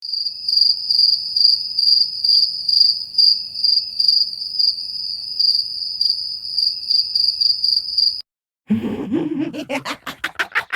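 Crickets chirping, the stock 'crickets' meme sound effect for an awkward silence: a steady high chirp with regular pulses that cuts off suddenly about eight seconds in. After a brief gap a different sound starts, ending in a fast run of rapid clicks.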